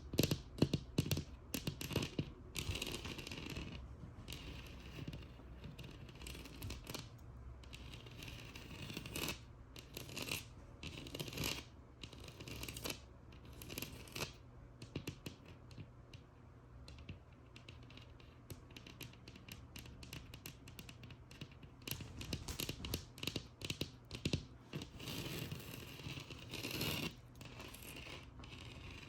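Fingernails tapping and scratching on a textured wall, in irregular runs of quick taps and rasping scratches, busier near the start and again late on.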